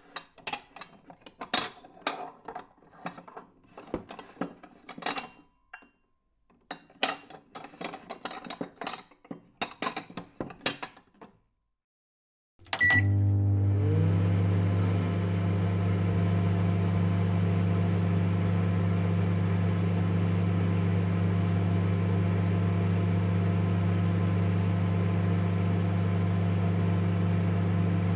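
Dishes clinking and clattering as they are set into a dish drying rack: a string of sharp knocks over about eleven seconds. After a short pause, a microwave oven beeps once and starts running with a steady low hum.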